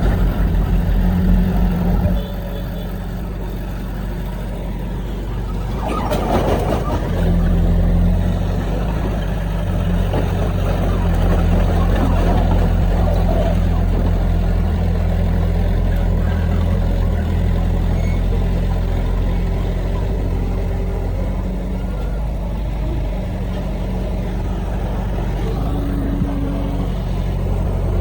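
Heavy diesel earthmoving machinery running steadily: the low engine note of a dump truck or crawler dozer at work. About six seconds in, a brief noisy burst cuts across it. From about seven seconds on, the engine runs louder and steadier.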